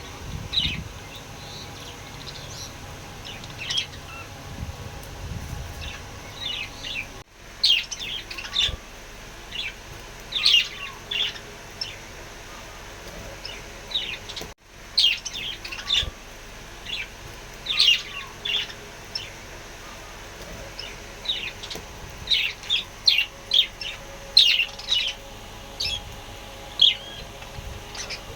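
Small pet parrots chirping: a steady run of short, high chirps and calls. The sound cuts out briefly about 7 seconds in and again about 15 seconds in.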